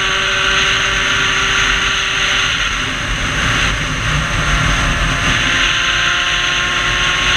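Sherco dirt bike's 75 cc MVT-kitted two-stroke engine with its expansion-chamber exhaust, pulling steadily at road speed. Its note changes about two and a half seconds in. Heavy wind rush on the helmet-mounted camera runs under it.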